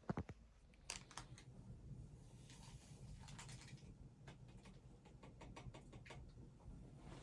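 Near silence with faint scattered clicks and a soft rustle, like small objects being handled.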